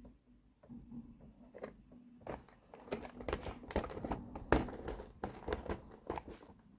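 Toy packaging being handled: crinkling and rustling with small clicks and taps, sparse at first, then denser and louder from about two seconds in.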